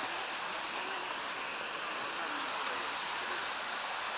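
Steady rushing of water from the Dzhegosh stream's cascading waterfalls, an even hiss with no breaks.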